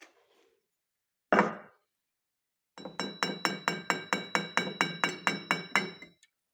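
A single knock, then a quick run of about a dozen clinking strikes, roughly four a second, with a steady ringing tone through them, stopping abruptly after about three seconds.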